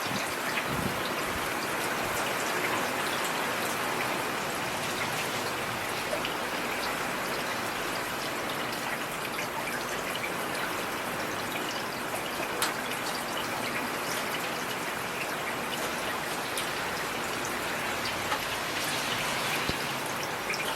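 Heavy rain falling steadily: a dense, even hiss of drops with a few sharper individual drop ticks scattered through it.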